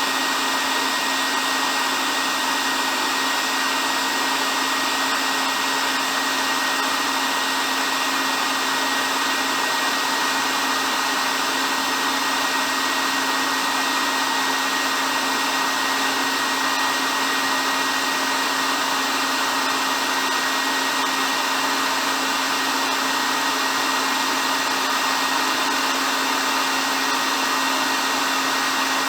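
Hair dryer running steadily: an even whooshing hiss of blown air with a constant motor hum and a faint high whine, unchanging throughout.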